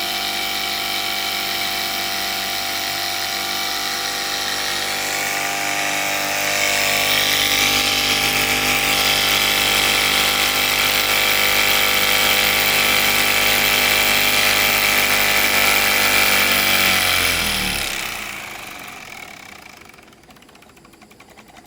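Mamod SP6 miniature stationary steam engine, with its double-acting cylinder, running fast on full flame: a loud, steady high whir that gets louder about six seconds in. Near the end its pitch falls sharply and the sound fades as the engine slows right down.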